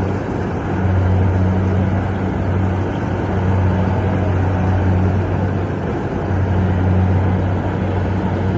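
Kubota combine harvester's diesel engine running steadily while harvesting rice: a loud, constant low drone with machinery noise, dipping briefly about half a second in.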